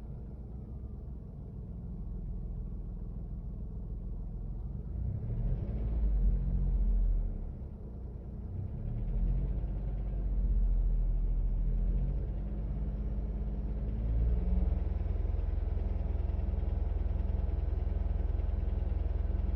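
Daihatsu Taft's three-cylinder kei-car engine running at a standstill: it idles, then is revved lightly a few times and held at raised revs near the end. Under it is an unexplained clattering noise, between a rattle and a flapping, that grows with throttle.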